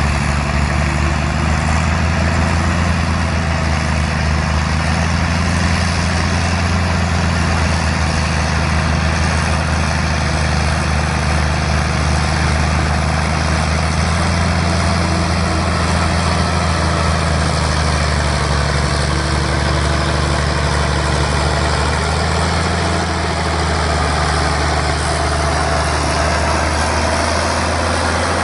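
Large engine running steadily at an even speed, with a deep, constant low hum.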